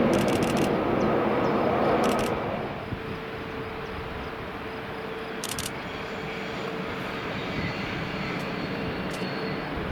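Rhaetian Railway train running past, its noise dropping away after about two seconds and leaving a quieter steady hum with one held tone. A few brief clicks sound over it.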